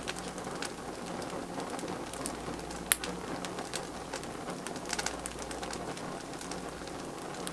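Birch-wood fire crackling, with scattered snaps and one sharp, loud pop about three seconds in.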